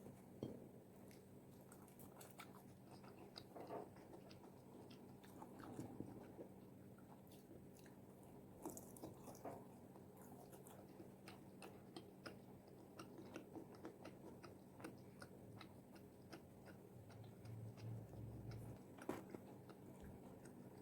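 Fried chicken wings being bitten and chewed close to the microphone: faint, irregular crunching and clicking of crisp skin, with a few louder crunches.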